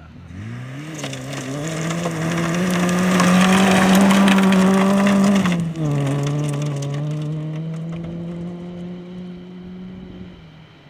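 Fiat Cinquecento rally car accelerating hard on a gravel stage, its engine note climbing and growing louder, with gravel crunching under the tyres. About halfway through the engine note drops suddenly, and the car then runs on steadily as it fades away.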